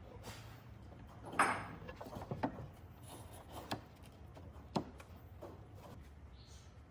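A few scattered light knocks and clatters of wood being handled in a quiet workshop, the loudest about a second and a half in, with a couple of quick ones shortly after.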